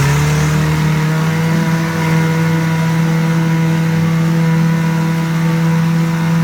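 1983 Johnson 9.9 hp two-stroke twin outboard motor running in a test tank at a steady speed, its pitch holding constant. Freshly tuned with a new carb kit, plugs and plug wires, it is running pretty good.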